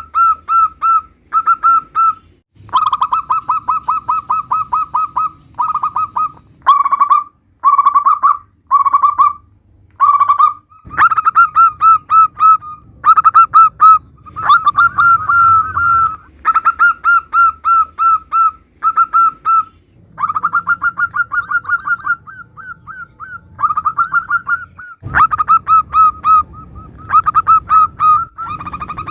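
Zebra doves (perkutut) cooing in rapid runs of short, repeated staccato notes, one run after another with brief pauses. Abrupt changes in background hiss at the joins show several different recordings spliced together.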